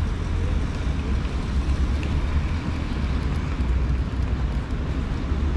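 Steady outdoor city ambience: a constant low rumble with an even wash of noise over it, nothing standing out.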